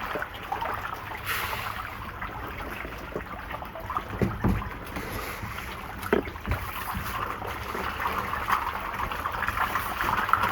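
Catfish churning and splashing at the water's surface in a tank as they snap up pellet feed in a feeding frenzy: a steady, restless sloshing with a few sharper splashes about four and six seconds in.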